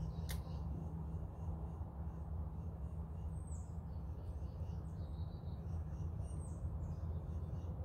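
Birds calling faintly: short high chirps repeating, with two sharper downward calls midway and near the end, over a steady low rumble. A single click just after the start.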